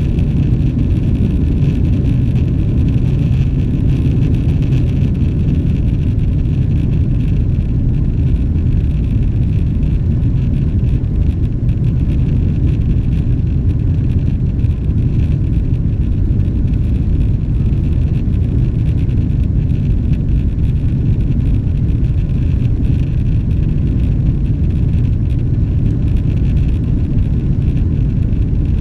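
Steady low rumble inside the cabin of a Boeing 777-300ER, from its GE90 engines and the airflow around the fuselage while the airliner is under way after its takeoff run began. The level holds even throughout.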